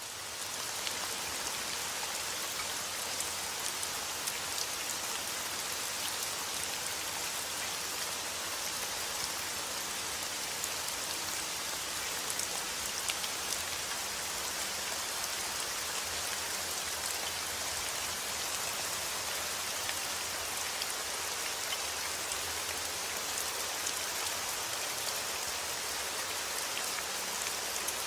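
Heavy rain falling steadily outdoors, a dense even hiss peppered with small drop ticks, fading in over the first second.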